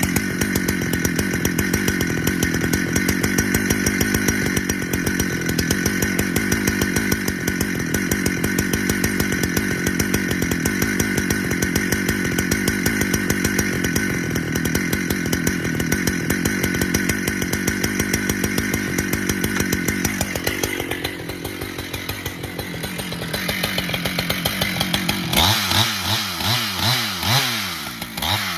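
Husqvarna chainsaw cutting through red oak under load, running steadily for about twenty seconds; it then eases off, and near the end the engine is revved up and down several times.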